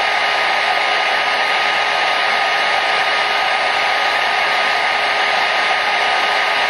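Hair dryer running steadily on one setting: an even rush of air with a faint motor whine.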